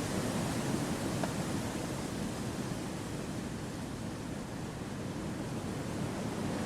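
Wind blowing through forest trees: a steady rushing that eases slightly about midway and swells again near the end.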